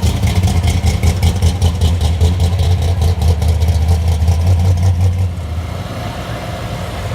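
Car engine running loud with a deep, steady rumble and even pulsing, which drops off sharply about five seconds in to a quieter engine sound.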